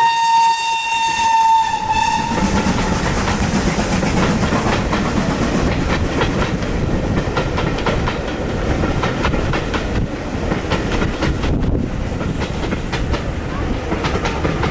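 Steam locomotive whistle holding one steady note that stops about two seconds in. Then the steam train runs past, its wheels clattering over the rail joints in a dense, even rumble.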